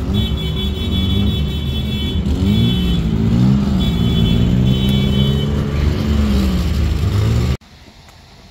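A car engine running and rising and falling in pitch as it accelerates, with a high-pitched tone sounding in four short stretches over it. The sound cuts off abruptly near the end, leaving a faint hiss.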